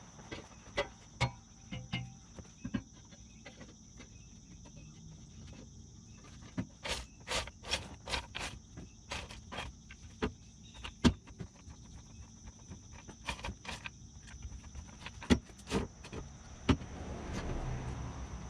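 Scattered sharp metal knocks and clanks of a steel exhaust pipe assembly being slid under a pickup and fitted into place, over a steady high insect trill.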